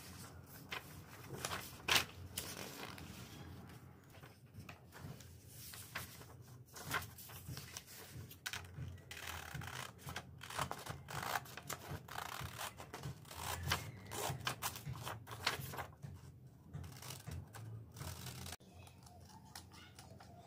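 Hands working with materials at close range: irregular scratching, rustling and snipping-like strokes, the loudest about two seconds in.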